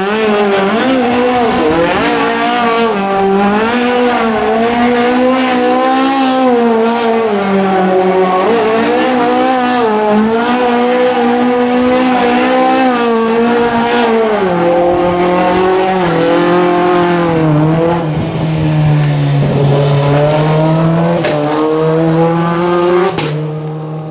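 Fiat 131 Abarth rally car's four-cylinder engine revving hard, its pitch rising and falling constantly as the car is driven sideways through the course, with tyre squeal. The sound fades near the end.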